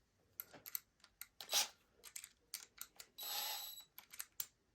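Small metallic clicks and clinks as a cordless drill's bit is taken out and a screwdriver bit is fitted in the chuck, with a brief buzzing rattle lasting under a second about three seconds in.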